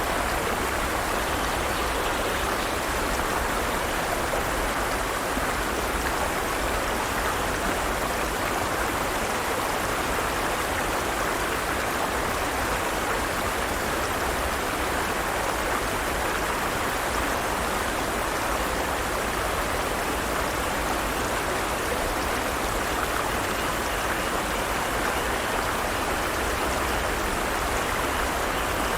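Forest stream: water running steadily over rocks in a constant rushing wash.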